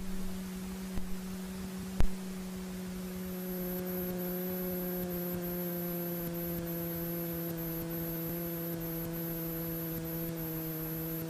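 Sting light-sport airplane's engine throttled back as it settles onto the runway, heard as a steady low hum with a few fainter higher tones through the cockpit intercom recording. A single sharp knock about two seconds in.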